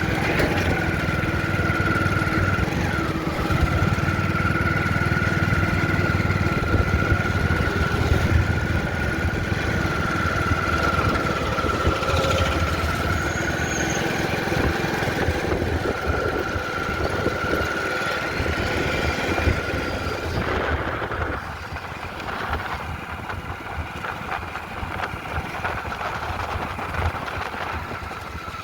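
A vehicle engine running steadily, a low rumble under a held high whine. About twenty seconds in, the whine stops and the sound drops and thins.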